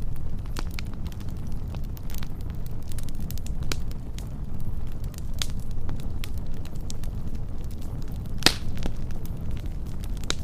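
Wood fire burning, crackling with scattered snaps over a steady low rumble, and one loud pop near the end.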